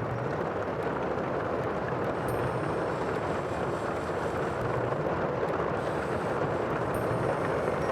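Sea surf rushing in a steady, unbroken roar, growing slightly louder about halfway through.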